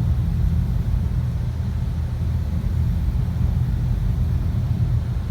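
High-pressure rinse water from a LaserWash M5 touchless car wash spraying against the car, heard as a steady low rumble.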